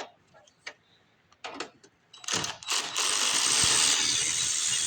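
A few light metal clicks of tools, then about two seconds in a power tool starts and runs steadily, backing out a stuck quarter-inch bolt.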